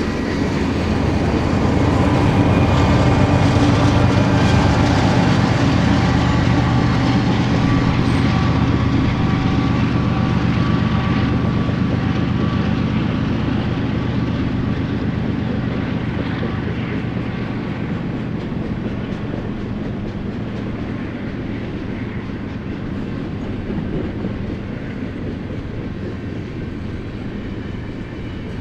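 BNSF westbound manifest freight train rolling past, its cars' wheels running on the rails. It is loudest a few seconds in, then slowly fades.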